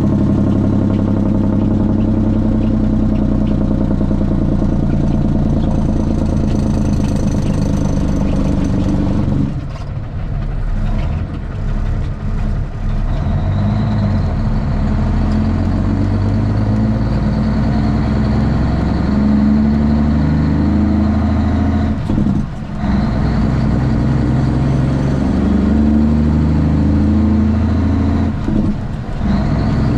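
Straight-piped Cummins ISX inline-six diesel of a Kenworth T800 running steadily, its sound dropping off briefly a few times, about ten seconds in, past twenty seconds and near the end.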